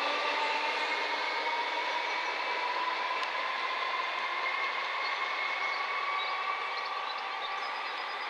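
Passenger train running past at speed: a steady rail noise that fades slowly, with faint whining tones sliding gently down in pitch as it draws away.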